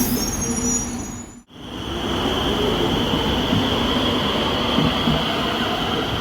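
Cologne Stadtbahn light-rail train running in an underground station, with high wheel squeal. The sound cuts out abruptly about one and a half seconds in, then returns as steady running noise with a constant high whine.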